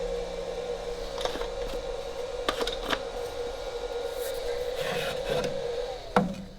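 Delta shaper, driven by a VFD, running with a steady whine, with a few light clicks over it. About six seconds in, the whine falls in pitch and stops.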